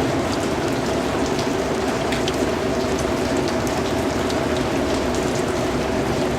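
Steady rainfall, with individual drops ticking on a surface over a low steady hum.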